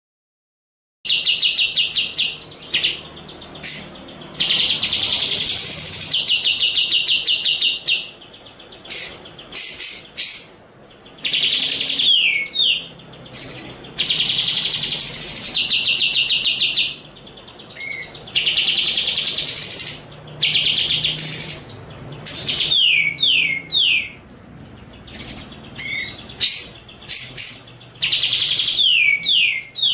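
Recorded songbird song used as a training track for competition birds: after a second of silence, long rapid buzzy trills, some rising in pitch, alternate with short quick downward-sweeping notes and brief pauses.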